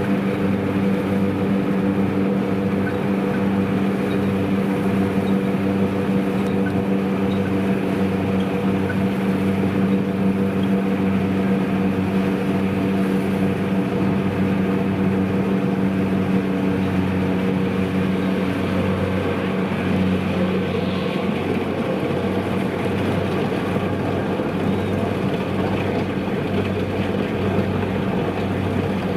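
Kubota DC-93 combine harvester's diesel engine running steadily, with the hum of its machinery. A strong steady tone in the sound weakens about two-thirds of the way through.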